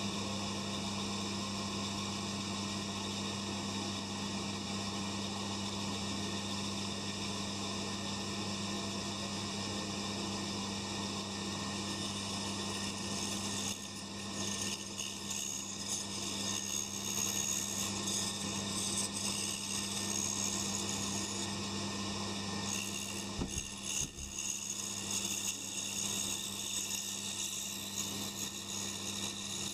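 Pégas scroll band saw's electric motor running with a steady low hum, idling with no wood in the blade. From about halfway, sawn wooden pieces rub and click as they are handled and fitted together, with a soft bump about two-thirds through.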